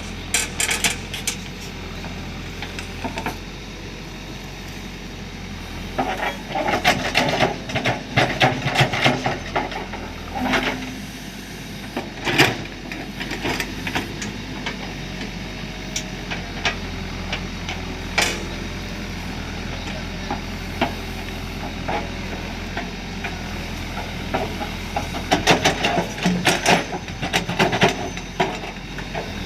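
Caterpillar 424 backhoe loader's diesel engine running steadily during loading work, with two stretches of rapid clattering knocks, one about a fifth of the way in and one near the end, and a few single knocks between them.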